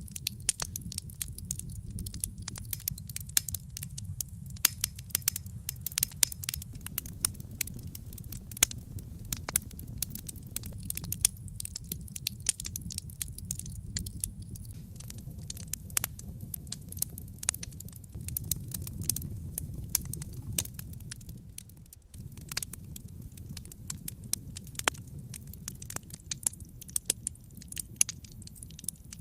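Wood fire crackling in a fireplace: a dense, irregular run of sharp pops and snaps over a low, steady rumble of the flames, briefly dipping about three quarters of the way through.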